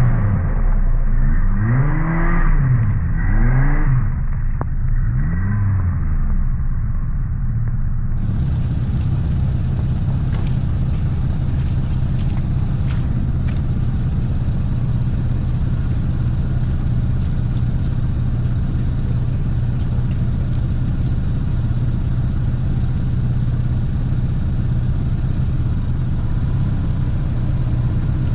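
Vehicle engine revving up and falling back about four times in the first few seconds, then running steadily at an even, low pitch, with a few faint clicks.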